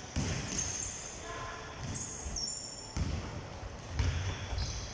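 Basketballs bouncing on a hard gym floor, thudding at uneven intervals, with short high squeaks of sneakers on the court.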